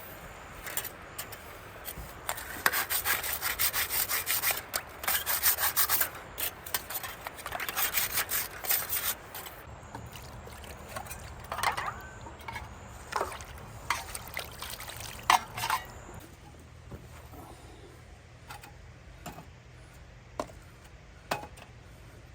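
Rhythmic back-and-forth scraping strokes for the first nine seconds or so, then scattered light clicks and knocks.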